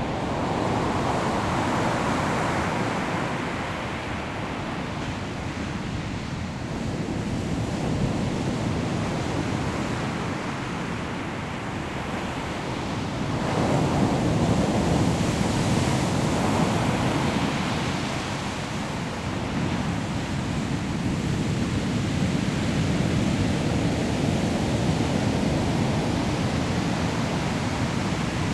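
Sea waves breaking on a pebble shore, a continuous rush of surf that swells and eases over several seconds, loudest around the middle, with wind in the background.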